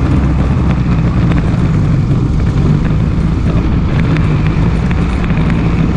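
ATV engine running steadily under way, with a few light rattles.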